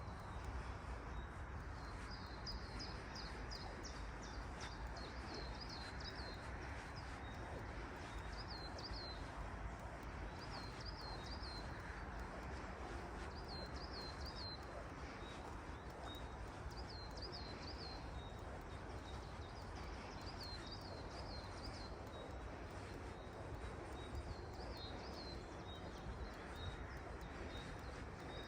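A songbird repeating a short phrase of a few quick, high, down-slurred chirps about every three seconds. Behind it is a steady hiss of forest ambience with a low rumble.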